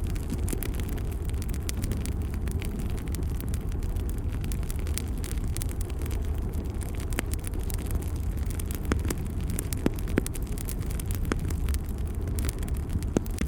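Wood fire burning in a fireplace: a steady low rumble of flame with frequent sharp crackles and pops, a few louder ones near the end.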